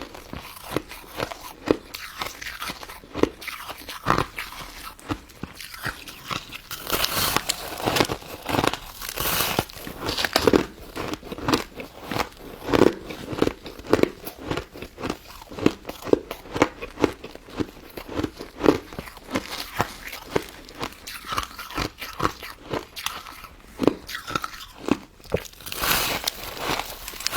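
Close-up crunching and chewing of a frozen pink crystal-ice dessert: many crisp, irregular crunches as icy pieces are bitten and chewed, loudest about a quarter of the way in and again near the end.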